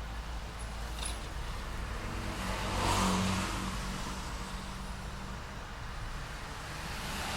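City street traffic: steady road noise with a car passing close by about three seconds in, its engine briefly louder, and another vehicle approaching near the end.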